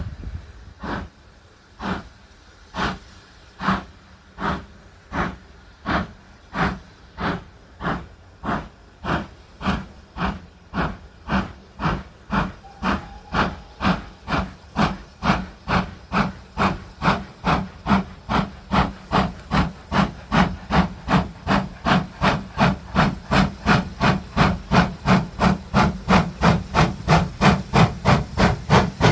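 Steam locomotive pulling away under load, its exhaust beats speeding up from about one a second to roughly three a second and growing louder as it gathers speed.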